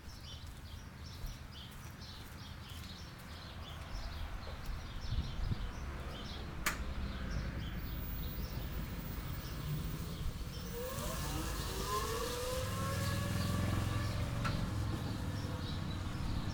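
A Taylor Dunn 36-volt electric utility cart's drive motor whines up in pitch as the cart pulls away, about two-thirds of the way through, over a low steady hum. There is a single sharp click about a third of the way in, and small bird chirps repeat in the background.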